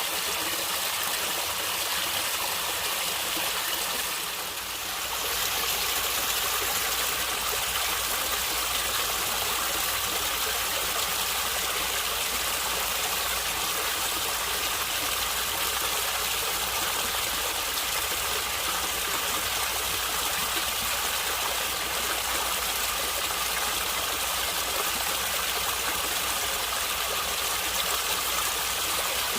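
Stream water flowing and gurgling over rocks: a steady, even rush of water with a slight dip in level about four seconds in.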